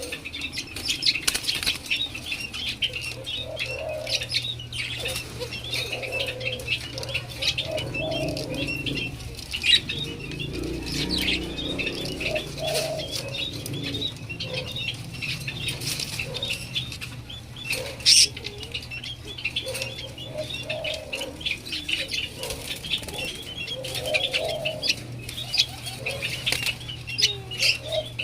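White-eared brown doves fluttering and moving about, with a constant patter of small clicks and scratches, over a steady low hum.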